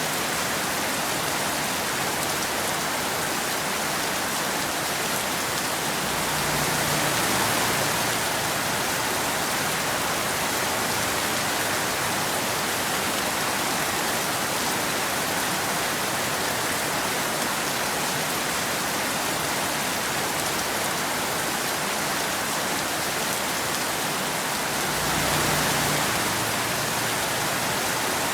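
Steady rain falling on a road surface, an even hiss of many drops. It swells briefly twice, with a low rumble under it, at about seven seconds and again near the end.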